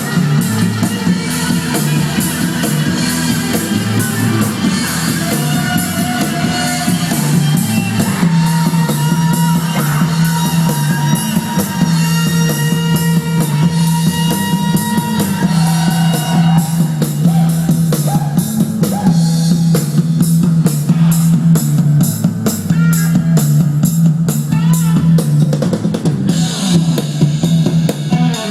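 Rock music with a drum kit, a prominent bass line and guitar, played loud and steady through Edifier R1000TCN bookshelf computer speakers.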